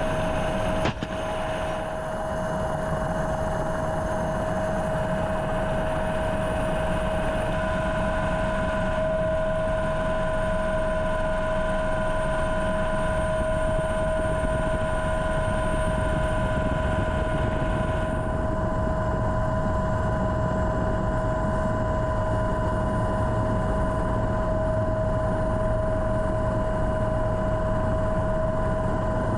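Steady helicopter engine and rotor noise with a constant high whine, and a brief click about a second in.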